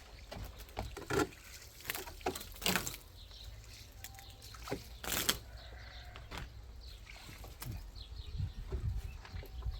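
Wet cement being worked by hand: irregular slaps, scrapes and knocks, the loudest about a second in, near three seconds and around five seconds, over a low rumble.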